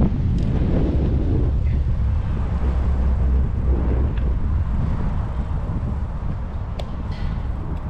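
Wind rumbling on a GoPro's microphone while riding a bicycle, with a few light clicks.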